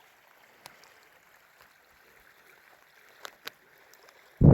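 Stream water running steadily, with a few faint clicks, and a loud low thump near the end.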